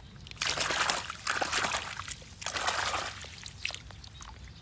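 Water pouring and splashing over a toy vehicle being washed, in three bursts of about a second each.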